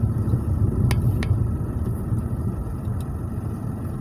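Car engine and road noise heard from inside the cabin, a steady low rumble, with a couple of light clicks about a second in.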